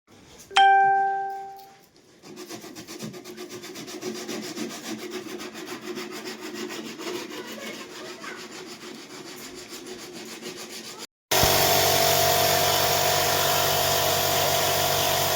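A single bright ding rings out and fades, then fast, even rubbing on wood, like sanding a surface for polish, goes on for about nine seconds. Near the end it cuts abruptly to a loud, steady machine hum.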